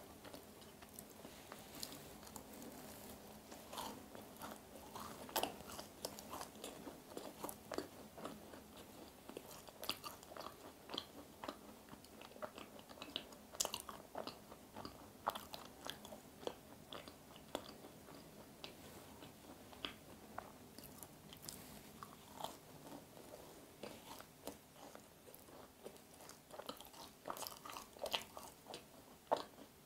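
Close-miked biting and chewing of a macaron with a caramelized sugar top: faint, irregular small crunches and mouth sounds throughout.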